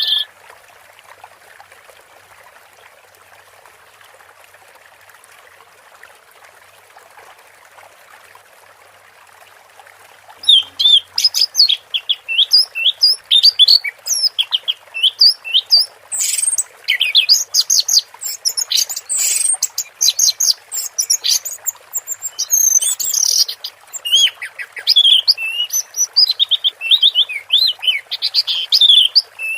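Orange-headed thrush singing a fast, dense run of short, high, varied notes. The song starts about a third of the way in, after some ten seconds of only faint hiss.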